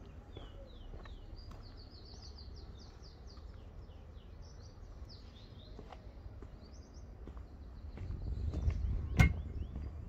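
Small songbirds chirping in trees, rapid strings of short high notes that each fall in pitch. A low rumble swells near the end, and a single sharp click comes about nine seconds in.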